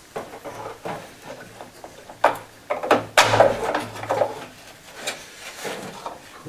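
Knocks, clicks and clatter of a car's rear bumper and its fixings being handled and fitted, with the loudest run of clanks about three seconds in.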